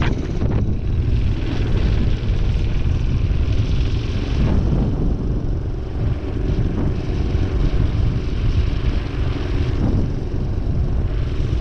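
Minibike's small engine running steadily while it is ridden, with a continuous low rumble.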